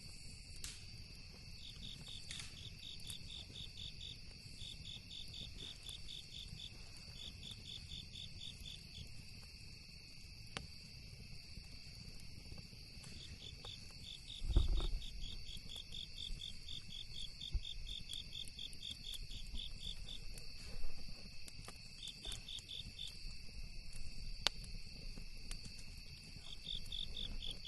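Crickets chirping in fast pulsed trills that come in runs of a few seconds, over a steady high insect drone. A few sharp campfire crackles are scattered through it, and a dull low thump comes about halfway.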